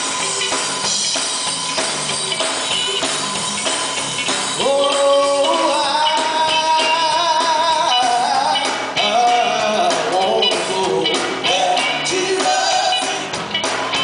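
Live gospel band playing a steady beat with drums and tambourine; about four and a half seconds in a singer comes in with long, wavering held notes over the band.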